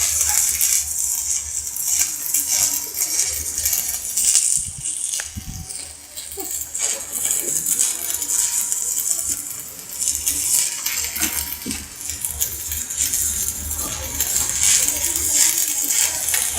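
Electric arc welding with an inverter welding machine: the arc crackling and hissing steadily, with many small pops, over a low electrical hum.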